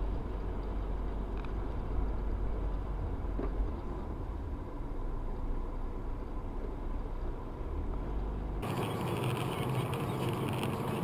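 Steady road and engine noise of a moving car picked up by a dashcam, with a heavy low rumble. It changes abruptly to a brighter, hissier road noise about eight and a half seconds in.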